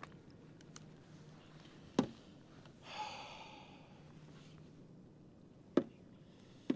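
A few sharp knocks, about two seconds in and twice near the end, with a breathy exhale around three seconds in, over a faint low hum.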